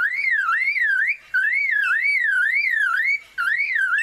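Male superb lyrebird mimicking a car alarm: a whistled tone sweeping up and down about three times a second, in repeated runs broken by two brief pauses.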